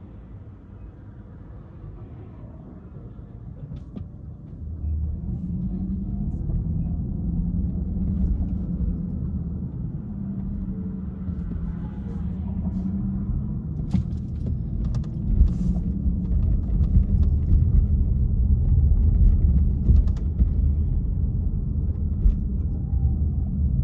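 Car driving, a steady low rumble of engine and road noise that grows clearly louder about five seconds in, with a few faint clicks and ticks later.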